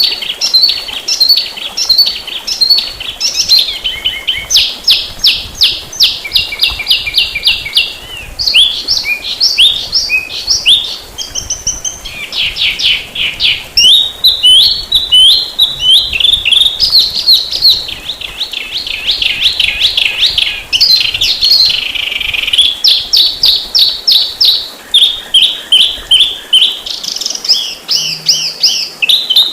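Songbird song played for masteran (song training): a fast, dense, unbroken stream of rapid trills and quick chirps, shifting from one phrase to the next every second or two.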